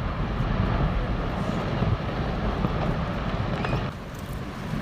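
Deep, steady rumbling roar of glacier ice crashing into the water and the wave it raises.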